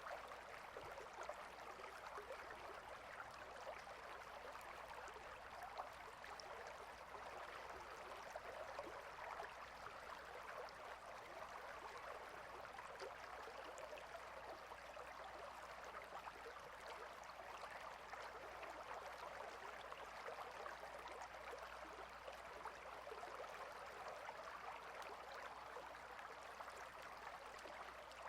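Steady flow of a small stream, water babbling and trickling evenly without a break.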